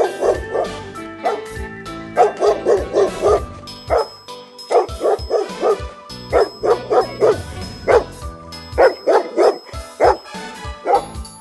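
A dog barking repeatedly in quick runs of several barks, over background music.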